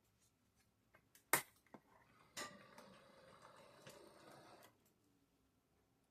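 Model railway cars being handled on the track: a sharp click about a second in, a few lighter clicks, then a clatter of small pieces for about two seconds, followed by a faint steady low hum.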